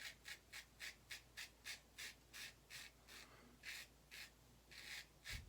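Short, faint scratchy strokes of a safety razor, an Autostrop, cutting lathered stubble, about three strokes a second.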